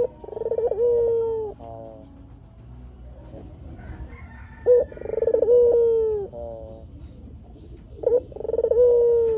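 Ringneck dove (puter) cooing three times, about four seconds apart. Each call is a short note, then a rolling, trilled coo, ending in a long held note that sinks slightly in pitch.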